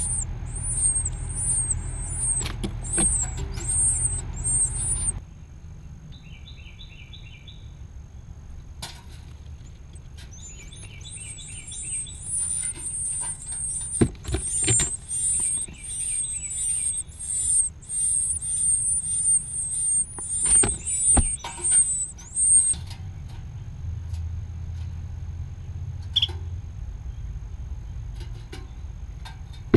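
Nestling birds begging for food with high-pitched, rapidly repeated calls, about four a second. They call in two long runs, the first stopping about five seconds in and the second lasting from about eleven to twenty-three seconds, with a few softer chirps in between.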